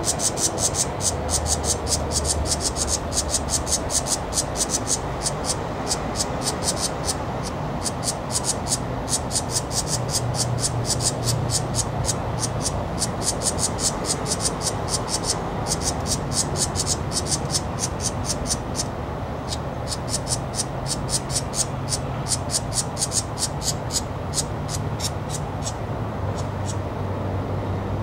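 Small songbird calling in a rapid series of sharp, high ticks, several a second, kept up in runs of a few seconds with short pauses between.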